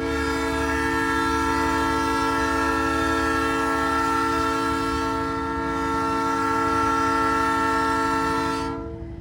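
Nathan Airchime train horn on a big-rig truck, blown in one long, loud chord of several tones that cuts off suddenly near the end. The truck's engine and road rumble run underneath.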